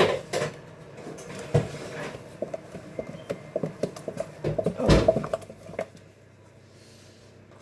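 Kitchen handling noise: scattered knocks, clicks and clatter of utensils and bowls being moved about. A louder knock comes about five seconds in, then it goes quieter.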